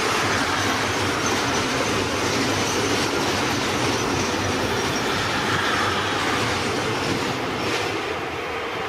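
Train passing close by, steady rolling noise of its wheels on the rails, easing off near the end as it goes by.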